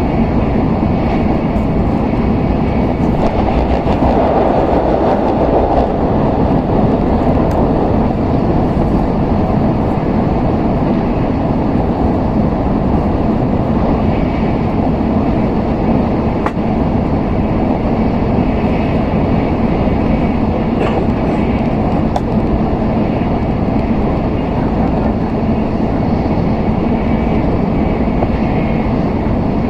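Running noise of an N700S Shinkansen at speed, heard from inside the passenger cabin: a steady rumble with a low hum.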